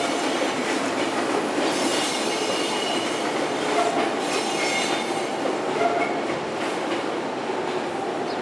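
Izuhakone Railway 5000-series electric train pulling out, steady rail running noise with intermittent high-pitched wheel squeal.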